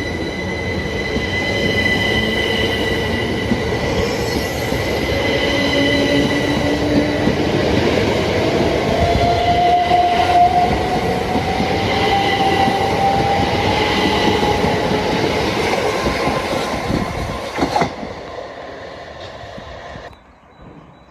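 Southeastern electric multiple-unit train running close by, loud: steady high whines, a lower whine rising in pitch, and a dense rumble of wheels on rail. The sound cuts off abruptly near the end, leaving a much quieter background.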